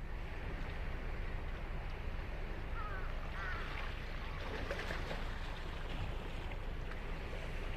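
Steady wash of ocean surf breaking on a sandy beach, with wind on the microphone. A few brief wavering calls about three seconds in and a rougher burst of them around five seconds.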